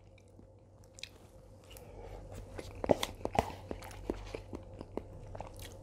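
A person chewing a mouthful of spicy stir-fried noodles and chicken close to a lapel mic: quiet at first, then a run of soft wet smacks and short clicks from about halfway through.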